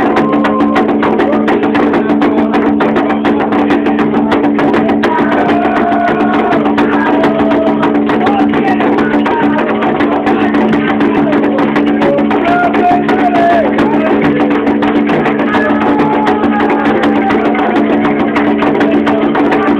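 Afro-Brazilian ritual music for Xangô: fast, dense struck percussion with wood-block-like clicks over a steady low tone, with voices singing a wavering chant line.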